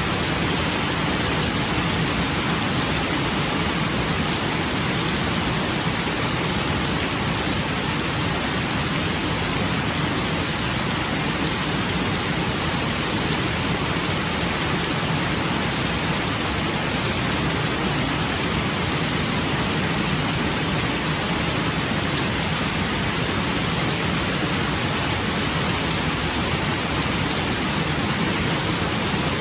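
Steady rain falling, an even unbroken hiss with no thunder claps or other separate sounds.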